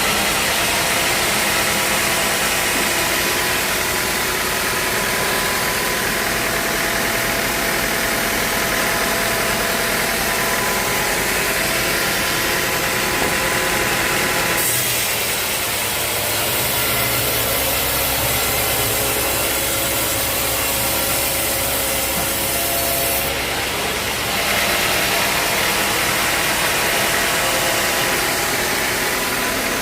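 Sawmill running and sawing through a teak log, with steady engine and blade noise. The sound changes in character for several seconds about halfway through, then returns.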